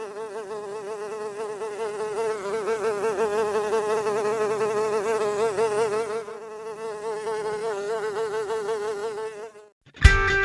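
A fly buzzing steadily with a wavering pitch, fading briefly about six seconds in; it stops near the end, and guitar music starts.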